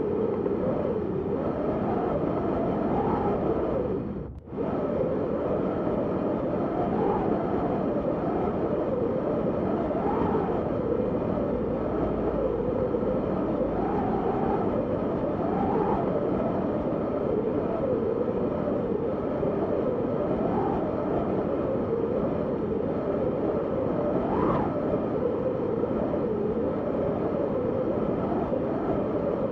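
Wind howling steadily, its moaning pitch rising and falling in slow waves. It drops out for an instant about four seconds in, then resumes.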